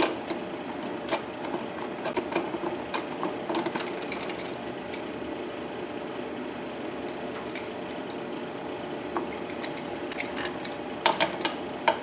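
Hand tools clicking and clinking on metal fasteners, irregular light taps over a steady background hum, as a wrench or socket is tried on a nut. A cluster of louder clicks comes near the end.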